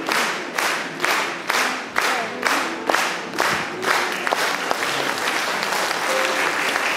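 Concert audience clapping together in time, about two claps a second, loosening into ordinary scattered applause about four seconds in.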